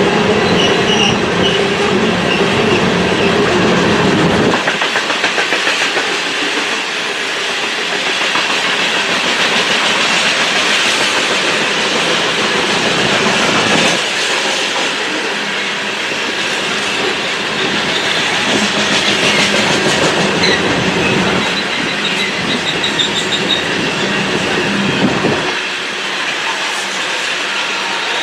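Freight train passing close by, its wheels rumbling and clattering over the rails in a steady clickety-clack.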